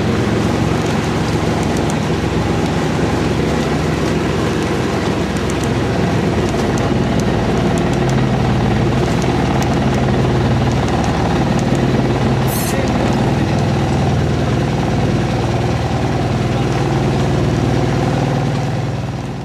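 Bangka outrigger pump boat's engine running steadily under way.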